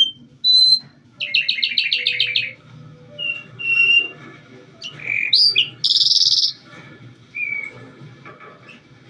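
Calandra lark singing: a fast trill of about ten repeated notes, then short clear whistles and a louder, rougher phrase near the middle, the song breaking off into pauses.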